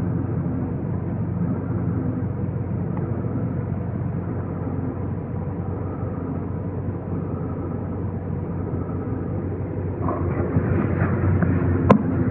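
2015 Volkswagen GTI (Mk7) running with a steady low drone and rumble, the horrible grinding noise that the owner has been fighting for months. It grows louder about ten seconds in, and a single sharp click comes near the end.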